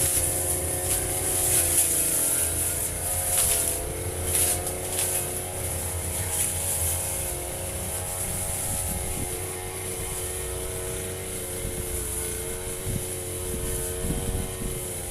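Two-stroke Firman FGB 528 brush cutter engine running steadily under load while cutting grass, with a few sharp ticks in the first few seconds and a slight shift in engine pitch about four seconds in.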